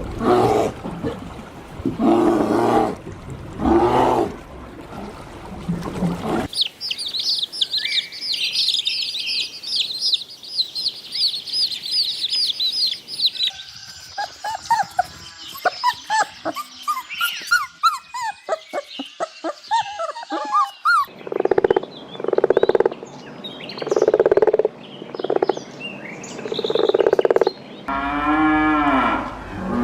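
A run of different animal calls in succession: repeated pitched calls for the first few seconds, then rapid high-pitched bird chirping, a stretch of lower, busier chirping, and a series of evenly spaced calls near the end.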